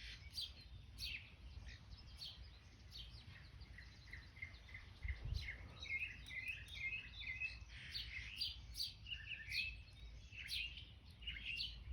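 Backyard birds chirping: short, sharp chirps repeated throughout, with a quick run of chattering notes about six seconds in, over a faint low background rumble.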